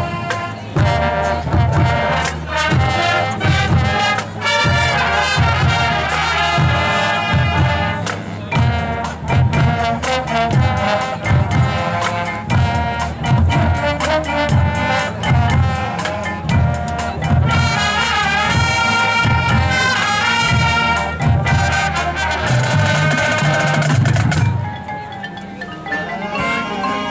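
High school marching band playing its show, brass over percussion keeping a steady driving beat. About 24 seconds in the full, loud sound drops away to a softer passage.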